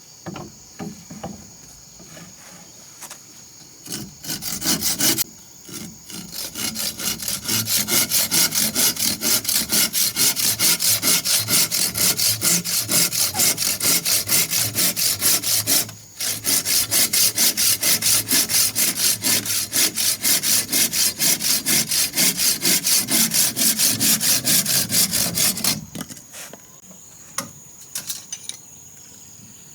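Handsaw cutting through wood in quick, even back-and-forth strokes of about three a second. It runs in two long bouts with a brief pause about sixteen seconds in.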